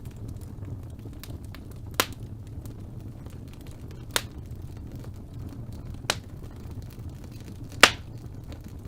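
Wood fire burning in a fireplace, a steady low rumble with small crackles throughout. Four sharp loud pops from the logs, about two seconds apart, the loudest near the end.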